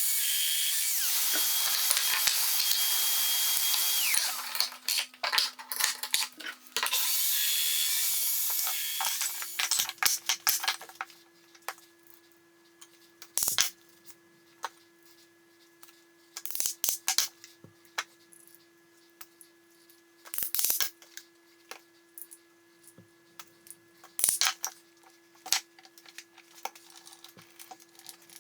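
A power tool working wood runs steadily for about four seconds, stutters in short bursts, then runs again for a couple of seconds. For the rest of the time there are scattered sharp clicks and knocks of tools and wood being handled.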